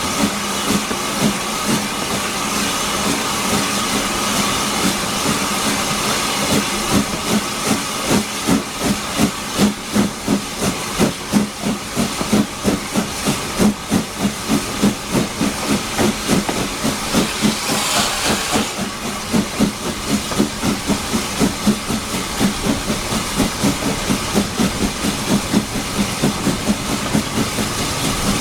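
LSWR S15 4-6-0 steam locomotive working hard, its exhaust beating out a steady, rhythmic chuff of a few beats a second over a constant steam hiss, heard from the train behind. About two-thirds of the way through comes a short burst of louder hiss.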